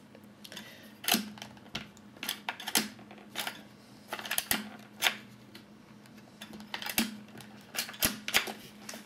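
Irregular plastic clicks and knocks as the Dyson DC34 handheld vacuum cleaner is handled, with its buttons being pressed and parts clicked into place. The motor is not running.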